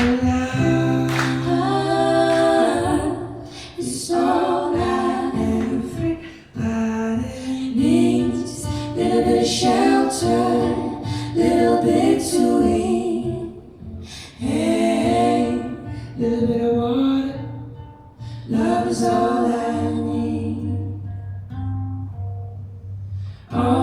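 An acoustic song: singing in phrases over guitar accompaniment, with sustained low notes beneath the voice.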